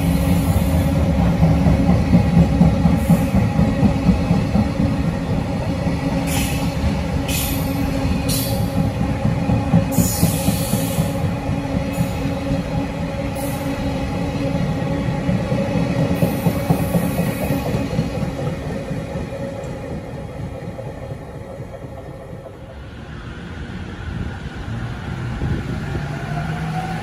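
Long container freight train running past: a steady rumble of wagon wheels on the rails, with several brief high-pitched wheel squeals in the middle. The rumble fades after about twenty seconds. Near the end an electric commuter train pulls away with a rising motor whine.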